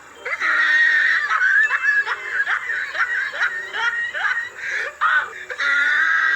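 A person laughing hard: a long run of high-pitched laugh bursts, each falling in pitch, coming about twice a second.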